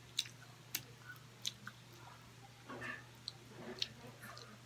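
A person chewing grilled street food: a string of sharp, wet mouth clicks and smacks, with a softer stretch of rustling noise a little before the end.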